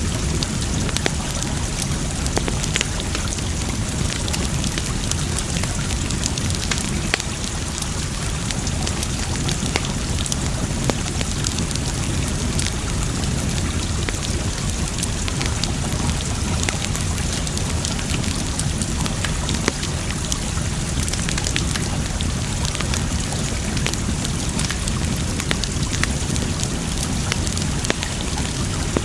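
Wood campfire crackling, with scattered sharp pops and snaps, over a steady rush of running water.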